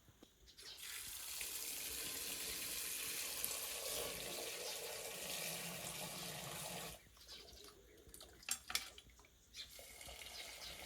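Water running from a tap into a sink for about six seconds, then shut off abruptly. A few sharp clicks follow, then a fainter steady rush near the end.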